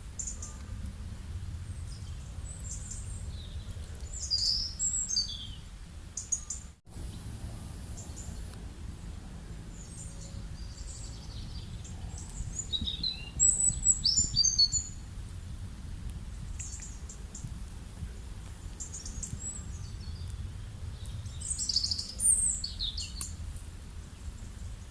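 Birds chirping and calling in short bouts, loudest about 4 seconds, 13 to 15 seconds and 22 seconds in, over a steady low rumble. The sound drops out for an instant about 7 seconds in.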